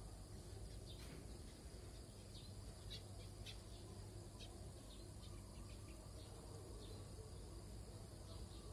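Faint outdoor ambience: scattered short, high bird chirps over a low, steady rumble.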